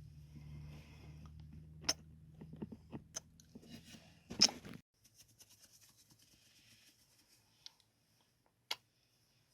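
Close-microphone ASMR kissing and mouth sounds: a few separate sharp, wet smacks, the loudest about four and a half seconds in. A low hum runs underneath for the first half and then stops.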